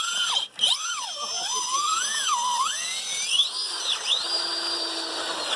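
Electric motor of an RC crawler truck whining under changing throttle, its pitch swooping up and down again and again, then held high for about a second and a half before it cuts off near the end.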